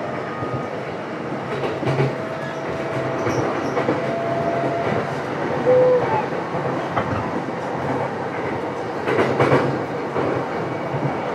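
Running noise inside a JR East E233-7000 series motor car, MoHa E233-7406: a steady rumble of wheels on rail, with clacks over rail joints about two seconds in and more around nine seconds in, and a faint thin whine through the first half.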